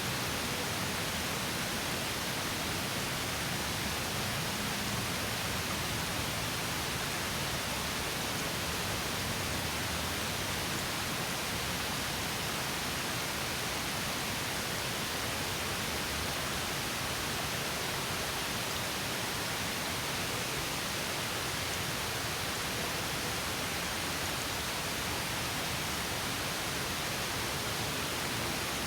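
Small stream spilling over a low mini waterfall: a steady, even rush of falling water with no breaks.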